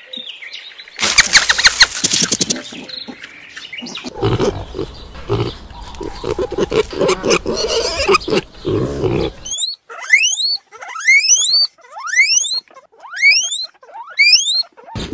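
A run of different animal calls: a loud harsh rasping call, then several seconds of low rhythmic grunts, then a series of about six sharp rising squeals.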